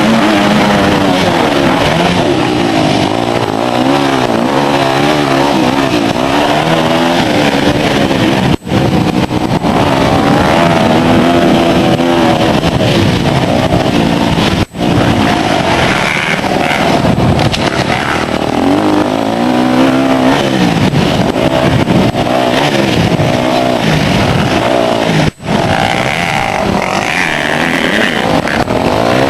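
Motocross bike engines revving hard, the pitch climbing and falling again and again as the throttle opens and shuts through gear changes. The sound cuts out briefly three times.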